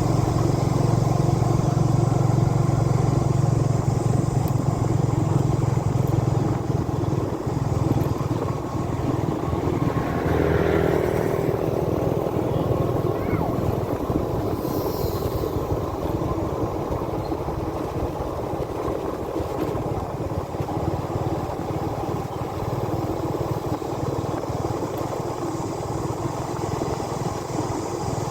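Motorbike engine running steadily while riding, with continuous road and wind noise. The engine's low hum is strongest for the first several seconds, then eases off.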